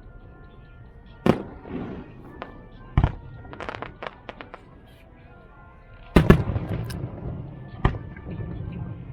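Fireworks going off. There are sharp bangs about one and three seconds in, then a run of smaller crackles. The loudest bursts come about six seconds in and leave a low rumbling echo, and one more bang follows near the end.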